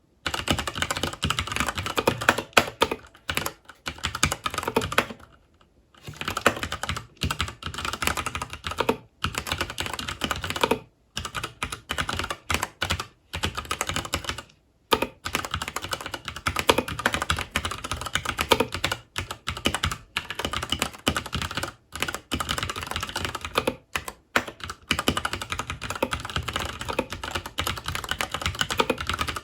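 Continuous typing on a FILCO Majestouch 2 Hakua tenkeyless mechanical keyboard with Cherry MX Brown switches: rapid key clacks in bursts, with brief pauses, the longest a little over half a second about five seconds in.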